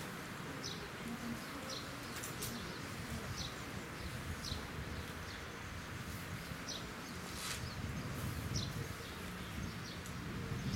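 Quiet outdoor ambience with a low background murmur, and a bird chirping: short high calls repeating about once a second.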